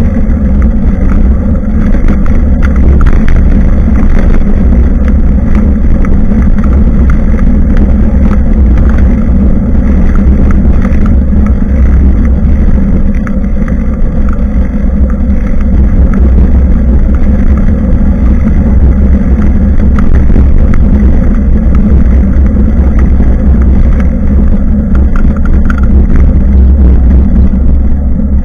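Loud, steady wind buffeting and road rumble on a bicycle-mounted action camera's microphone while cycling.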